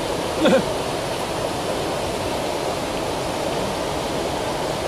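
Steady rushing noise, with a short voiced sound about half a second in.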